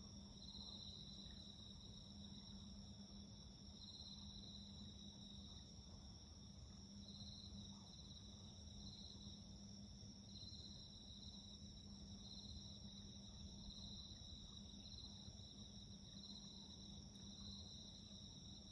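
Crickets and other night insects calling faintly: one steady high trill, with a second insect's trill just below it starting and stopping every second or two. A faint steady low hum runs underneath.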